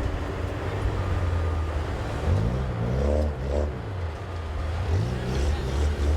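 Demolition derby car engines running with a steady low rumble, revved up several times, the pitch rising about two seconds in and again about five seconds in.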